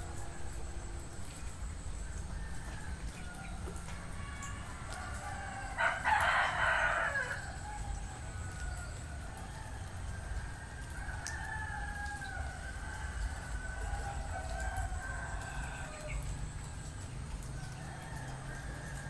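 Village roosters crowing, one loud nearer crow about six seconds in and fainter crows farther off later, over a low steady background rumble.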